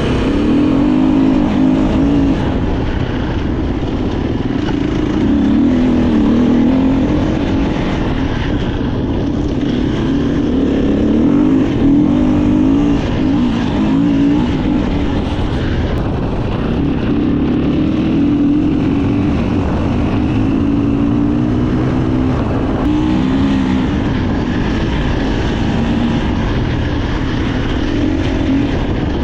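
Enduro dirt bike engine being ridden off-road, its revs rising and falling constantly as the throttle opens and closes, with wind and tyre noise underneath.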